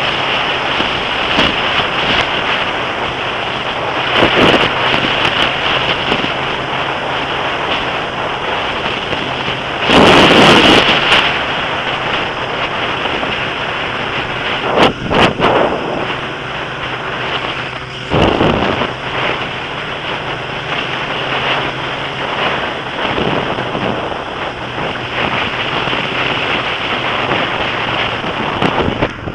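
Heavy wind buffeting on the microphone of an action camera riding on a Suzuki Gixxer motorcycle at speed, with the engine's steady hum faint underneath. The wind surges into louder gusts about ten, fifteen and eighteen seconds in.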